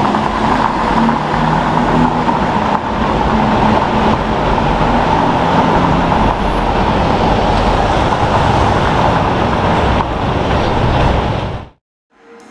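Lamborghini Aventador SVJ's naturally aspirated V12 running loud and steady as the car pulls away, cutting off abruptly near the end.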